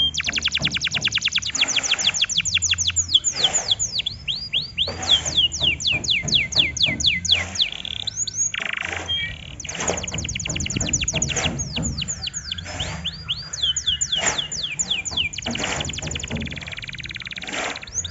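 Canary singing: rapid rolling trills of evenly repeated notes, alternating with series of quick downward-sweeping whistles, phrase after phrase with brief pauses between.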